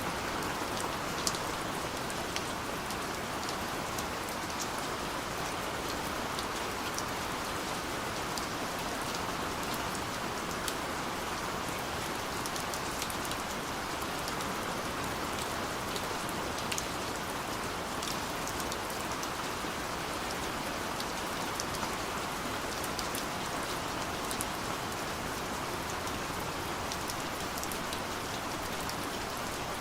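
Steady light rain falling, an even hiss with scattered drops ticking on a surface.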